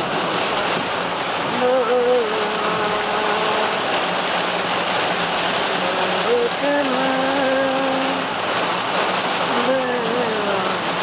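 Heavy rain drumming on a car's roof and windshield, heard from inside the moving car as a steady dense hiss. Three times a voice holds a few long, wavering notes over it.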